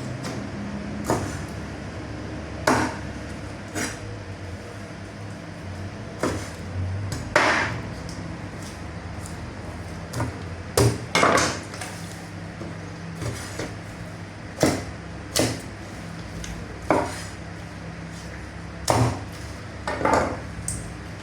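A cleaver chopping chicken on a wooden block: about fifteen sharp chops at irregular spacing, some in quick pairs, over a steady low machine hum.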